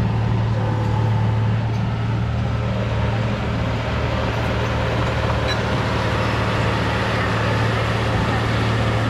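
Heavy earthmoving machine's diesel engine running steadily under load with a deep, even hum.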